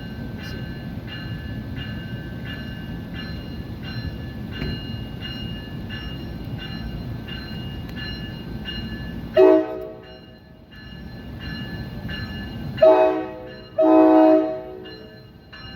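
Railroad crossing bell ringing at about three strikes every two seconds over the rumble of a train. About nine seconds in a locomotive horn sounds three blasts, a short one, then a slightly longer one, then a long one.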